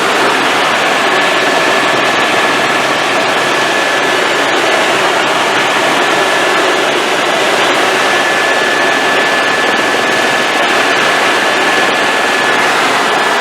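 Helicopter in flight: a loud, steady rush of engine noise with a thin, steady high whine that fades out near the end.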